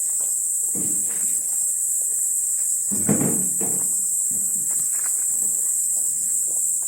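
Autumn insects, crickets among them, chirring in a steady high-pitched chorus. A few dull knocks and rustles come over it about a second in and around three seconds in.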